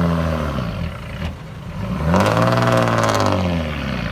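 Komatsu mini bulldozer's diesel engine revving up and back down twice under load. The first rev falls away in the first second; a longer one climbs about two seconds in and sinks near the end.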